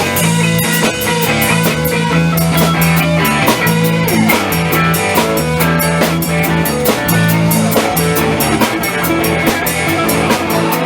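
Instrumental rock music: a drum kit playing a steady beat under guitar and bass notes, with no singing.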